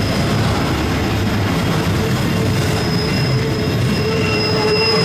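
CSX intermodal freight train's cars rolling past, a loud steady rumble of wheels on rail with thin high-pitched wheel squeal from the curve that gets stronger about three seconds in.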